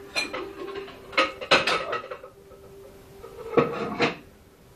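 Several sharp clinks and knocks of crockery and cutlery being handled, over a faint steady hum that fades out past the middle.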